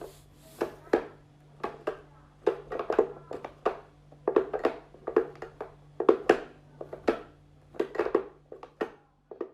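An irregular series of short taps and knocks, often two or three in quick succession, over a faint steady hum.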